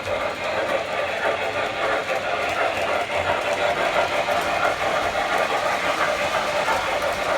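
O-gauge model train running on its track: a steady hum of the motor and wheel noise on the rails, with no pauses.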